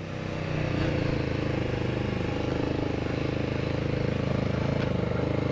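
Honda VTR250's V-twin engine running at low speed. It picks up a little in the first second, then holds a steady, even note.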